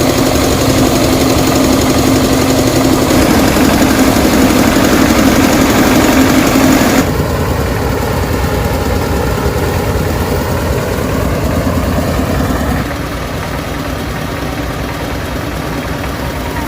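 An engine running steadily and loud, with a strong low hum. About seven seconds in it suddenly gets quieter and duller, and it drops again a little near the end.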